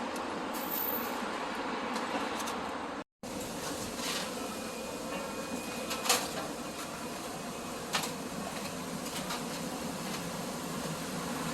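Steady background noise with a few sharp clicks, broken by a brief dropout about three seconds in.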